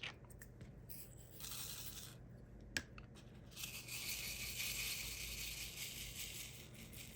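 Small plastic diamond-painting drills and their packaging being handled: a few light clicks, a brief rustle, a sharp click, then about three seconds of steady high rattling hiss, like drills being poured and shaken in a tray.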